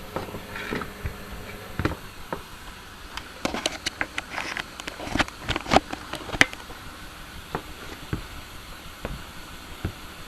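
Scattered light knocks, clicks and rustling of things being handled, thickest in the middle few seconds.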